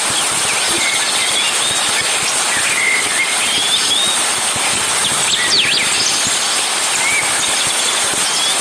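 Outdoor nature ambience: birds chirping now and then over a steady hiss and an even, high-pitched buzz.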